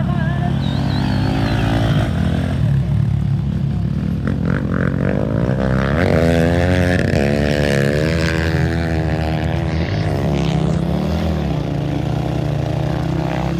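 Off-road race motorcycle engines running over a steady low engine drone, with one engine's pitch rising and falling in the middle as it revs or passes.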